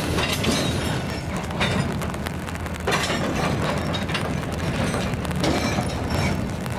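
Rail yard switching: irregular metallic clanks and knocks of freight cars, couplers and wheels on the rails, every second or so, over a low steady rumble of diesel locomotives.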